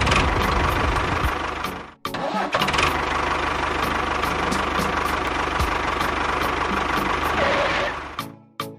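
An engine running steadily, cut off abruptly and resuming about two seconds in, then fading out near the end.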